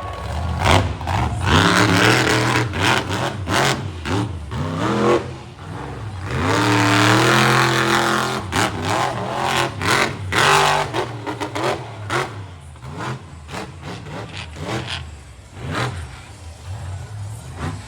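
Monster truck engine revving hard in repeated bursts, its pitch rising and falling, with one longer rev climbing in pitch from about six to nine seconds in.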